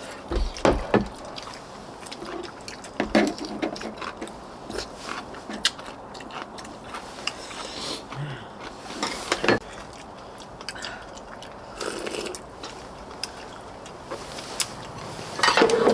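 Eating sounds: chewing and biting, with scattered sharp clicks and knocks throughout.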